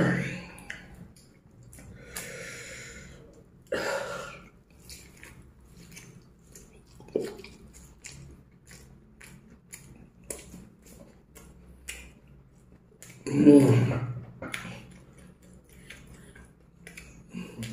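A man chewing fried chicken, with many small scattered mouth clicks and smacks and a few short voiced grunts, the loudest about two-thirds of the way through.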